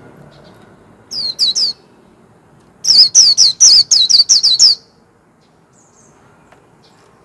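White-eye (vành khuyên) singing: a quick group of three high downward-slurred notes, then after a pause a rapid run of about eight such notes.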